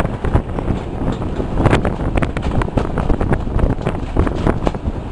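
Diesel-hauled passenger train running along the line, heard from an open carriage window: heavy wind buffeting the microphone over a steady rumble and irregular clatter from the wheels on the track.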